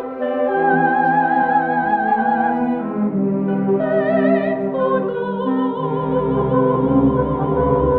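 Classical soprano singing long held notes with a wide vibrato, accompanied by an orchestra. Deeper orchestral notes come in near the end.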